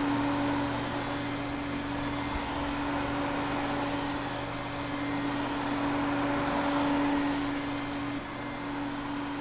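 Vacuum cleaner running steadily: a constant motor hum with one steady tone over a hiss of rushing air. The level dips slightly about eight seconds in.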